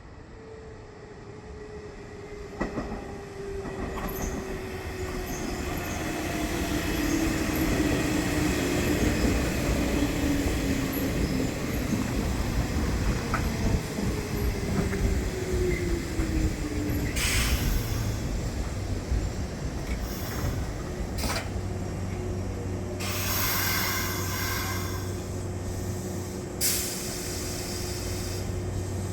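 Nishitetsu electric train slowing into a station, its traction motor whine falling steadily in pitch as it brakes. Near the end come short high squeals from the wheels or brakes, then the steady hum of the train standing.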